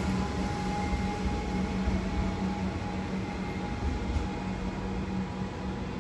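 Passenger train running past, a steady rumble with a low hum and a higher whine, slowly getting quieter.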